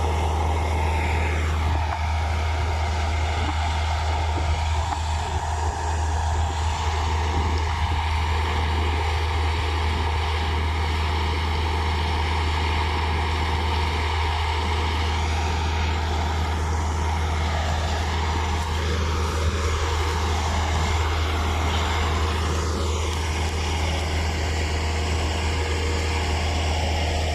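Wheat combine harvester running steadily, a constant low engine drone.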